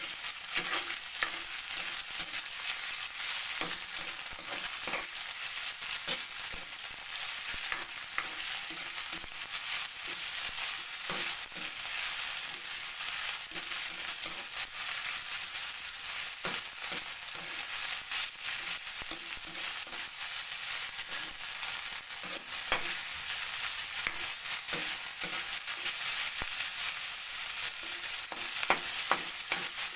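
Pork pieces with garlic and onion sizzling in hot oil in a steel wok, with a metal ladle scraping and clinking against the wok as the meat is stirred.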